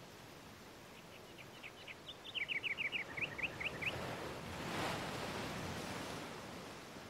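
A bird calls a quick run of short, falling chirps, about five a second, for some three seconds over a steady hiss. About five seconds in, a soft whoosh swells and fades.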